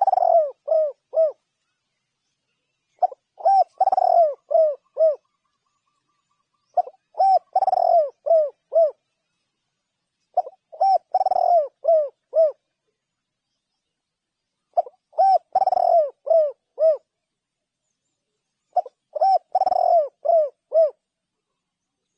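Spotted dove cooing: a short phrase of five or six coos, repeated about every four seconds with silence between.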